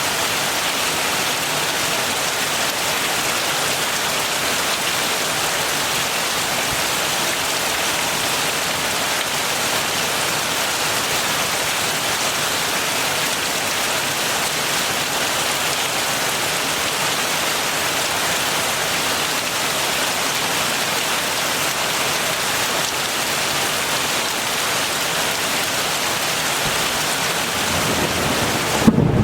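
Soft heavy rain falling steadily, a dense even hiss of drops. Just before the end, a deeper low rumble swells in and the level jumps sharply.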